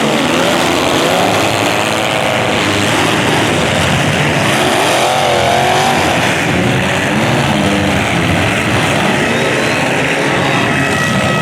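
Several demolition derby cars' engines revving at once, loud and unbroken, their pitches rising and falling over one another. A steady horn note starts near the end.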